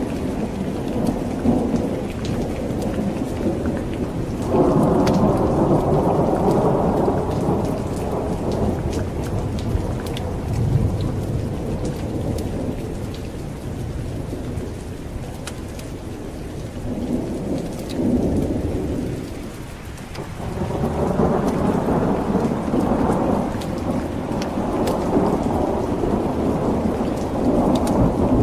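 Steady heavy rain with rolling thunder that swells and rumbles about five seconds in, and again for the last several seconds.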